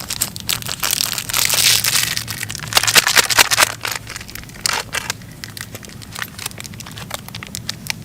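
Crinkling and crushing of something being handled, in irregular bursts with sharp clicks, loudest about three seconds in, over a steady low hum.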